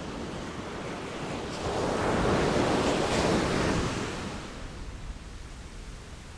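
Ocean waves breaking: one wave swells to a loud rush of surf about two seconds in and washes away, over a steady background of sea noise.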